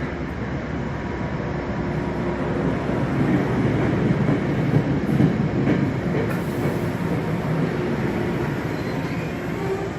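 Metro-North train moving through the station, a steady rumble of the train and its wheels on the rails that builds to its loudest about midway and then eases off.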